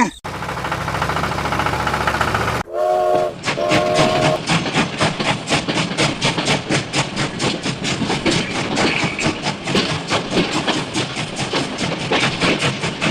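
Train sounds: a steady hiss with a low rumble, then two short whistle blasts about three seconds in, then rapid, even, rhythmic clacking of wheels over rail joints.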